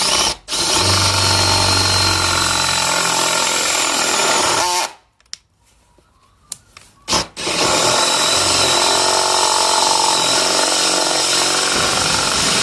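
Power drill spinning a 35 mm Forstner bit into a cabinet door, boring the cup hole for a concealed hinge. It runs in two goes with a stop of about two seconds between, the first ending about five seconds in.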